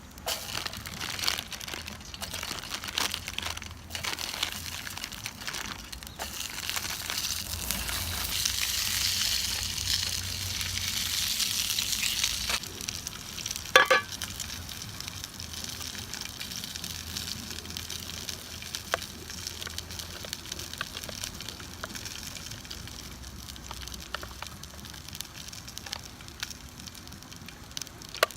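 Food sizzling in a frying pan. The sizzle swells about a quarter of the way in and eases off again before a single sharp metallic clank near the middle. Small crackles and clicks run throughout.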